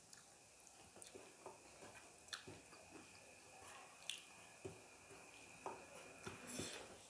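Close-miked eating: soft, irregular wet smacks and clicks of chewing rice with radish pickle, mixed with the squelch of fingers working rice and curry together on a steel plate.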